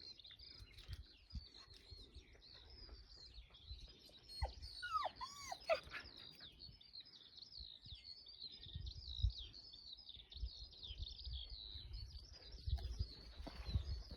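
Small birds chirping and singing continuously, with a few louder swooping calls about five seconds in, over a low rumbling noise.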